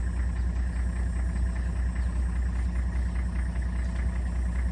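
Motor vehicle engine running steadily, a deep low rumble with a constant hum over it.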